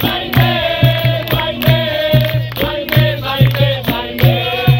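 Capoeira roda music: voices singing together over a berimbau and hand percussion, with a steady, evenly repeating beat.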